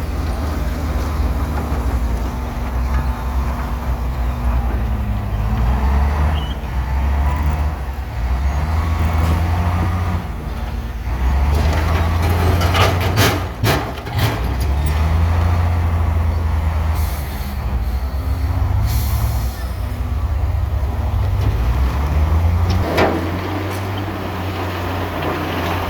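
Heavy diesel earthmoving machinery, bulldozer and dump truck, running under load, the deep engine drone rising and easing as it works. A few sharp knocks come about halfway through, and short bursts of air hiss follow, typical of a truck's air brakes.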